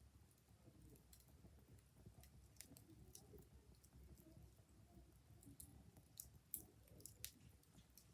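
Wood fire crackling faintly, with scattered irregular pops and snaps over a low rumble.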